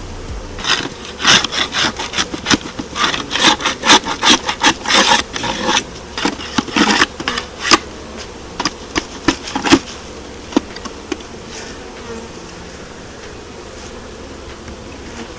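Honeybees buzzing around an open hive, with a run of sharp wooden knocks and scrapes through the first ten seconds as wooden hive parts are handled, then only the buzzing.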